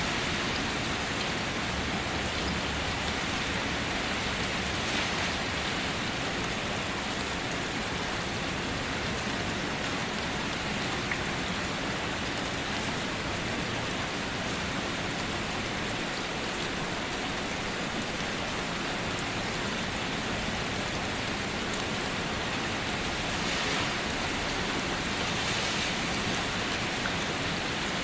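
Steady rain falling and striking surfaces, with scattered single drops heard as faint brief ticks.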